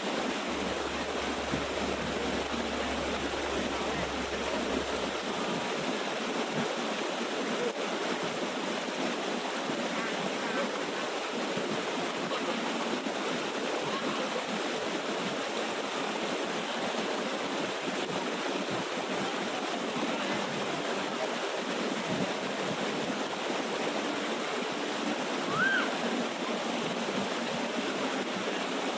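Water of a small waterfall and stream rushing steadily, with a brief high chirp near the end.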